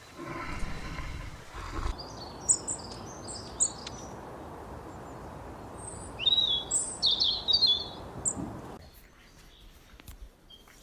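Birds chirping in two bursts of short, high calls, one about two seconds in and another around the middle, over a steady background hiss that drops away near the end.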